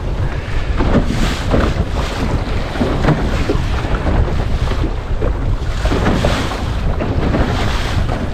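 Strong gusty wind buffeting the microphone on a small centreboard sailing dinghy (Laguna-Kombi+) beating upwind, with water rushing and slapping against the hull as it bounces over the waves; the wash swells louder about a second in and again near the end.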